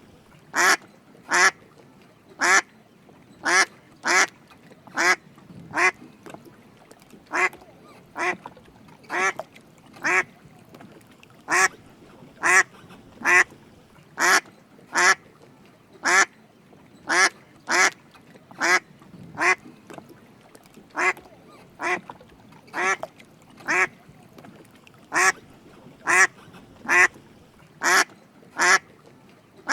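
Drake mallard quacking: short, loud quacks repeated steadily, often in quick pairs, about one and a half calls a second.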